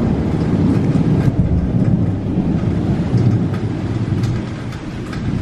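Long rolling thunder rumbling over heavy pouring rain, the rumble easing a little near the end.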